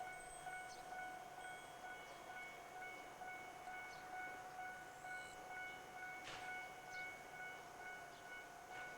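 Japanese railway level-crossing warning bell ringing faintly in a fast, even, repeating ding. A short sharp click comes about six seconds in.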